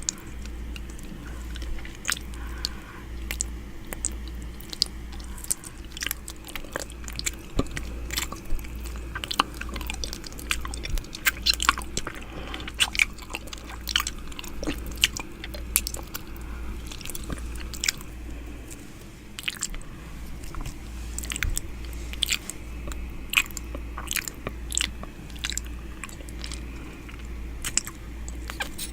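ASMR 'ear eating' mouth sounds close to the microphone: wet clicks, smacks and licks, irregular and several a second, over a steady low hum.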